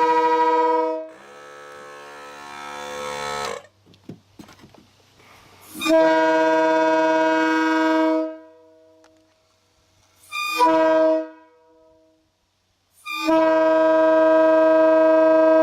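Locomotive air horn sounding a chord of several steady tones in the grade-crossing pattern: the end of a long blast, another long blast, a short one and a final long one. A quieter sound of several tones rises between the first two blasts.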